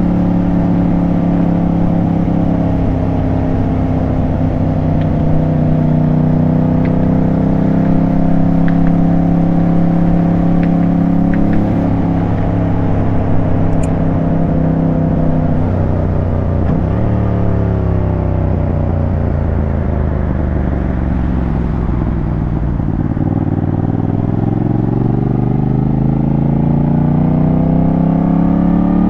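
Motorcycle engine running under way at a steady cruise, dropping in revs about halfway through, then rising steadily through the last third as the bike accelerates.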